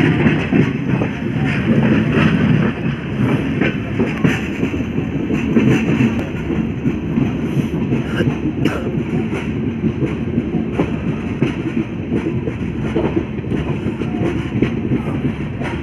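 Moving passenger train heard from the open doorway of a coach: a steady rumble of the wheels on the rails, with irregular clicks and clatter as the coach runs over the track. It eases slightly a few seconds in.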